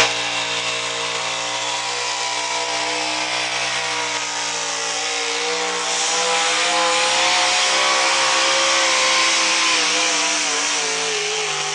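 Pulling truck's engine held at high revs under full load as it drags the weight-transfer sled down the track. The pitch falls near the end as the truck bogs down and the pull finishes.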